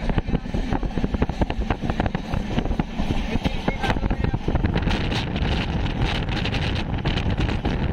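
Passenger train running, heard from on board: a steady rumble of the coaches with dense rattling clicks through the first few seconds. Wind buffets the microphone throughout.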